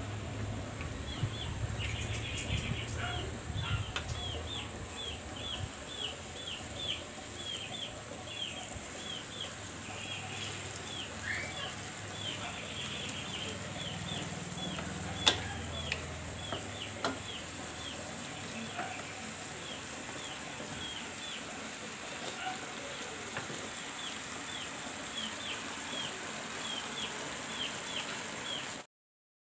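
A bird chirping over and over, short falling chirps about two a second, over sauce simmering in a wok. Stirring is heard in the middle, with one sharp knock of the spatula on the wok about fifteen seconds in. All sound cuts off suddenly just before the end.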